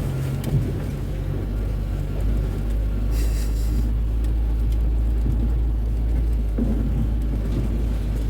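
Steady low rumble of a car driving, heard from inside the cabin: engine and road noise, with a short hiss about three seconds in.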